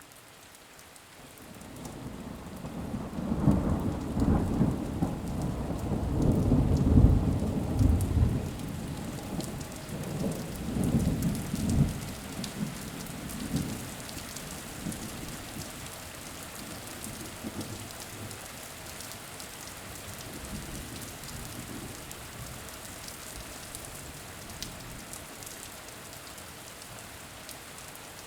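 Steady rain falling, with a long rolling rumble of thunder that builds about two seconds in, is loudest in the middle, and dies away about halfway through, leaving the rain alone.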